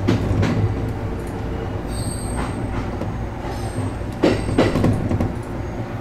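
ET127 series electric train running slowly, heard from inside the cab: a steady low rumble with a few sharp clacks as the wheels pass over rail joints and points.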